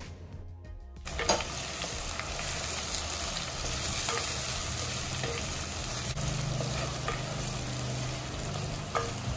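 Hot oil with onion and ginger-garlic paste sizzling in the pan, breaking into a steady frying hiss suddenly about a second in as the green chilies go in, with a few light clicks from stirring.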